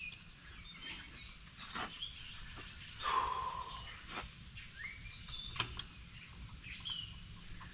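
Small birds chirping and twittering in the background, short high calls scattered throughout, with a few faint clicks and a low steady hum underneath.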